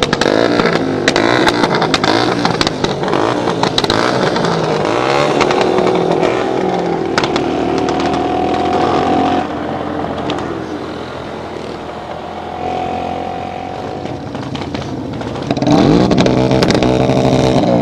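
Several motorcycle engines running together, their pitches rising and falling as they pass. Near the end one engine revs up, louder.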